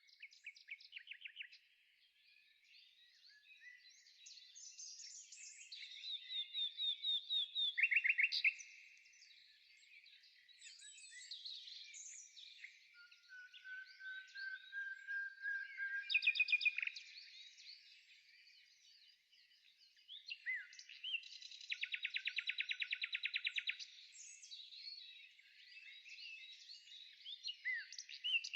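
Several songbirds singing and calling: overlapping quick trills, chirps and whistled phrases, including a thin, slowly rising whistle near the middle and a long, fast, even trill about three quarters of the way through.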